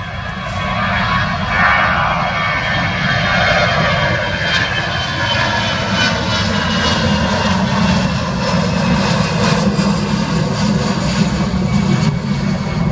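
Airbus A320 jet engines at takeoff power, loud and steady after building up over the first couple of seconds, with a whine that slides in pitch.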